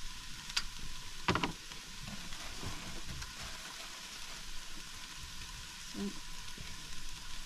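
Prawns, red peppers and baby sweetcorn sizzling steadily in a frying pan, with a sharp click and then a louder knock about a second in.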